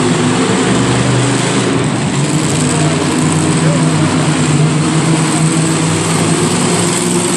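Monster truck engine running loud and steady, its pitch dipping briefly about a second in before settling back.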